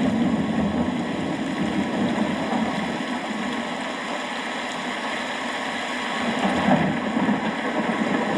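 Steady rain, with a low continuous rumble underneath.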